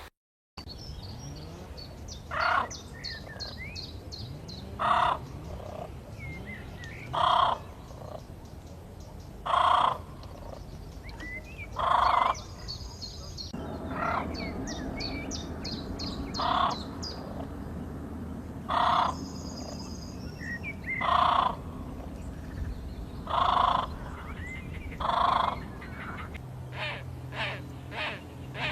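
A bird calling loudly and harshly, one call about every two and a half seconds, over fainter high chirps and trills of other birds. Near the end the calls come faster, and a low hum starts up.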